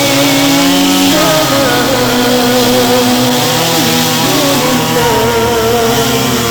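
Engines running steadily, their pitch wavering and gliding up and down.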